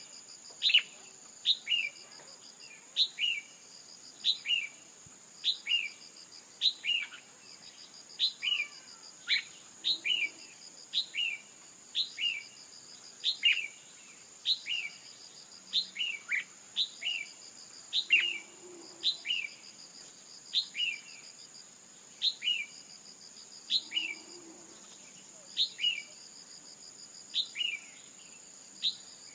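Female red-whiskered bulbul calling: short, sharp notes that fall in pitch, repeated about once a second, often in pairs. This is the kind of female call used to provoke male bulbuls into singing. A steady high-pitched insect trill runs behind it.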